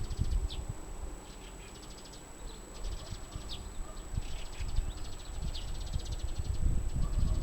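Wind buffeting the microphone in uneven gusts, with short high bird chirps scattered throughout.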